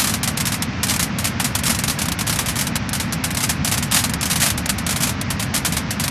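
Wood fire burning with dense, continuous crackling and popping over a low hiss and rumble.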